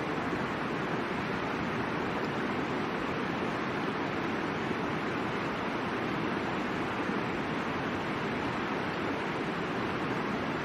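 Middle Fork Boise River rushing: a steady, even roar of running water.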